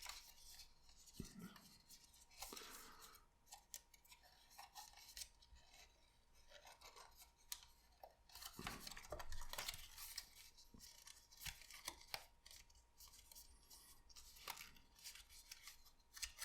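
Faint paper crinkling and creasing as small papercraft pieces are folded by hand, in scattered short crackles and clicks with a slightly louder stretch about halfway through.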